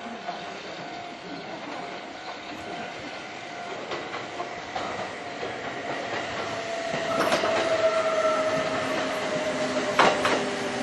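Kintetsu electric commuter train pulling into a station, getting louder as it draws near. A steady whine slides slowly down in pitch as the train slows, and the wheels clack a few times over the rail joints and points, loudest about ten seconds in.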